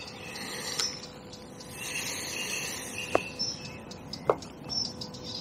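Outdoor ambience of birds singing: high-pitched chirps and trills, with two short clicks about three and four seconds in.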